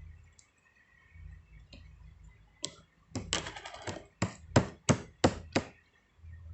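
A series of sharp knocks on a hard surface: a single click, a quick clatter, then five evenly spaced taps, about three a second.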